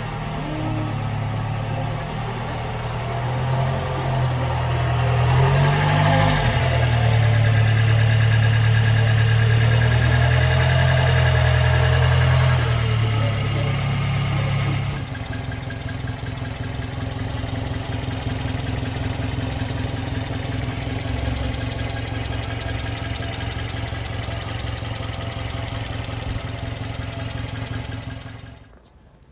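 1992 Subaru Sambar kei truck's small 660 cc four-cylinder engine running: engine speed rises about five seconds in, holds, and settles back after about thirteen seconds; then a steady idle that stops shortly before the end.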